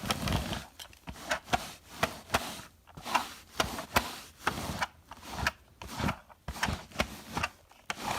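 Handheld pet hair remover being stroked back and forth over fabric to pull up cat fur, making repeated rasping strokes at about two to three a second.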